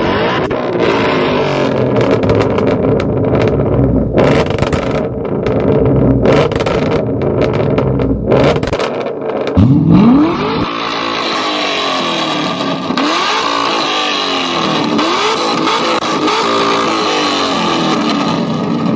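A car engine with a loud aftermarket exhaust being revved hard while stationary, with sharp crackles through the first half. About ten seconds in it revs up quickly, followed by a run of repeated rising and falling revs.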